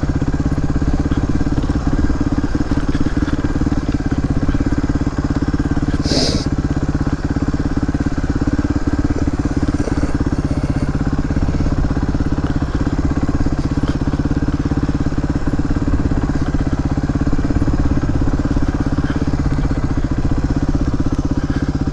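Suzuki DR250S single-cylinder four-stroke engine running at a steady pace under way. A brief high-pitched sound cuts in about six seconds in.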